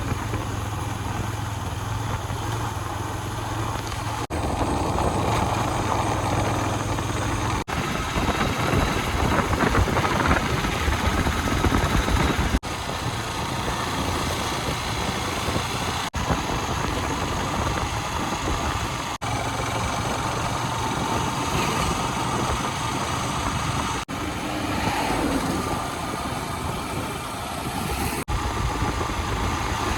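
A motor vehicle's engine and road noise while travelling along a road, heard in a string of short clips joined by abrupt cuts.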